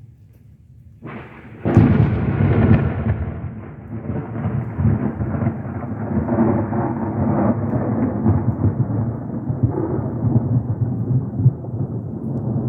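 A thunderclap breaks suddenly about a second and a half in, loudest for the first second or so. It then rolls on as a long, fluctuating rumble of thunder.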